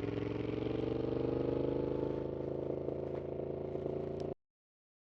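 Yamaha MT-07's 689 cc CP2 parallel-twin engine, fitted with a full aftermarket exhaust, pulling steadily under throttle, its pitch rising slowly and then holding. The sound cuts off abruptly near the end.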